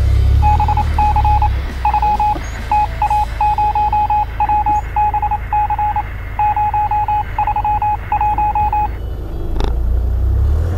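Electronic beeping at one steady pitch, in irregular groups of short, equal pulses, running for about eight seconds and then stopping. Beneath it the low rumble of the Land Rover Defender's engine.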